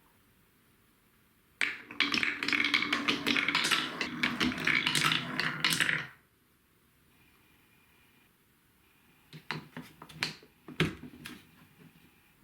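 Marbles rattling and clacking along a TrixTrack marble-run course: a dense run of rapid rattling clicks starting about one and a half seconds in and lasting about four and a half seconds, then a quiet spell and a few scattered separate clicks near the end.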